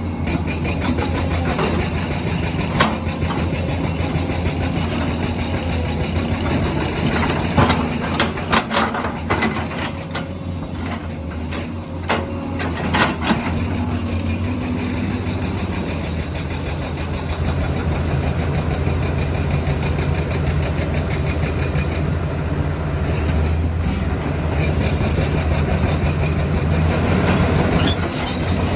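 Diesel engine of heavy earthmoving machinery running steadily under load, with a run of sharp metallic knocks and clanks in the middle.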